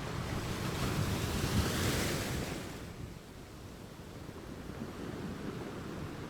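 Ocean waves: a wave swells and washes in, peaking and hissing over the first three seconds, then the surf settles back to a low steady rumble.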